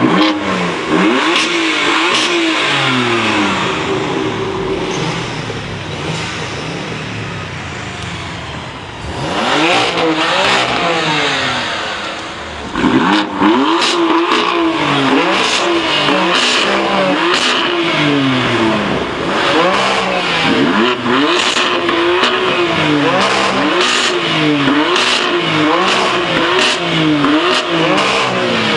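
BMW M3/M4 twin-turbo straight-six engines revved again and again, the pitch climbing and falling in quick repeated sweeps. From about halfway on, sharp cracks from the exhaust come between the revs.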